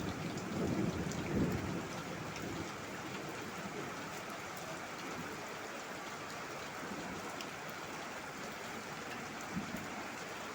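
Heavy rain falling steadily, with scattered sharp drop clicks. A low rumble of thunder dies away in the first two seconds.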